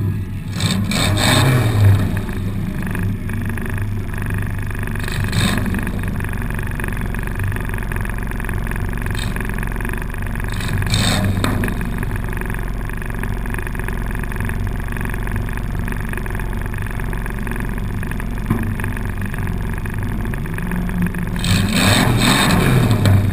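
Four-cylinder demolition derby car's engine heard from inside the car, revving hard at the start and again near the end and running at a steadier low drone in between. A few sharp knocks come in the middle stretch.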